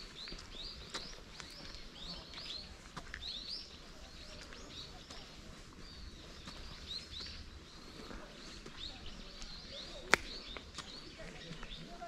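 Small birds calling with quick, repeated high chirps that fall in pitch, over light steady footsteps on a forest path. One sharp click stands out about ten seconds in.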